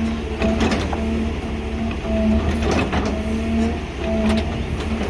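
Diesel hydraulic excavator running, with a steady whine that drops out and returns several times, and a few sharp metal clanks and knocks.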